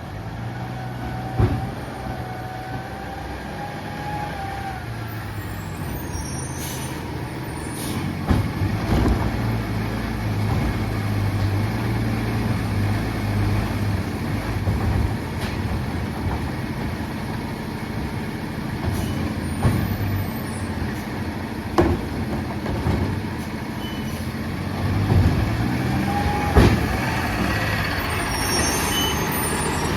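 Freightliner M2 side-loading garbage truck with a Labrie Automizer body, its diesel engine running steadily. Several sharp clanks and knocks are spread through it, and a thin whine lasts a few seconds near the start.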